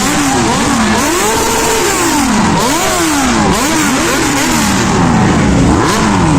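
Superbike engines revved repeatedly, the pitch climbing and dropping with each blip of the throttle, with some revs overlapping.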